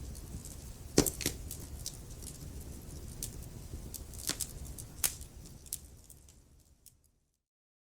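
Wood fire in a fireplace crackling and popping over a low rumble, with a loud pop about a second in; the sound fades out to silence near the end.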